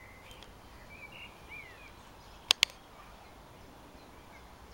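Faint outdoor background with a few short bird chirps, broken about two and a half seconds in by two sharp clicks in quick succession.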